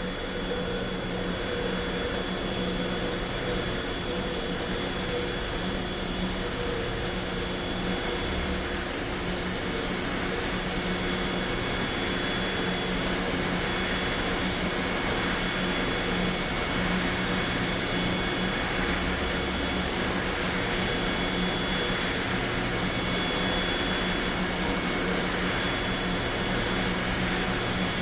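Steady industrial drone of waste-incinerator machinery: an even rushing noise with several held hum tones, low and high, that barely change.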